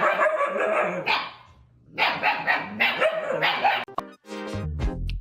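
A dog barking, about five loud barks with a short pause after the first two. About four seconds in it cuts to electronic music with a heavy bass beat.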